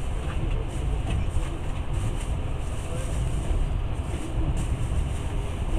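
Passenger train running, heard from inside the carriage: a steady low rumble of wheels on rails with a hiss of track and air noise.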